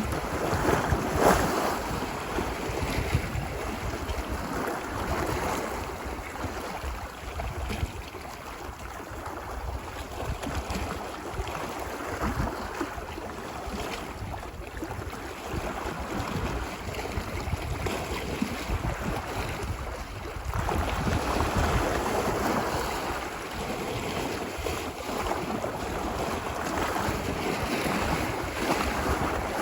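Ocean surf washing ashore, a continuous wash that swells and recedes every few seconds, strongest about a second in. Wind rumbles on the microphone underneath.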